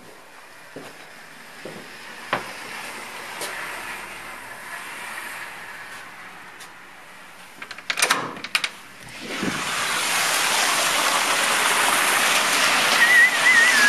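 A few light knocks, then a clatter of door-latch clicks and knocks about eight seconds in, followed by a loud steady rush of wind and snowstorm noise from about ten seconds on. A brief warbling whistle sounds near the end.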